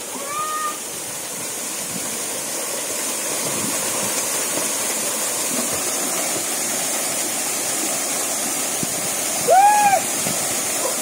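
A small waterfall's steady rush of falling water into a stream pool. A person's short call, rising and falling in pitch, cuts across it near the end.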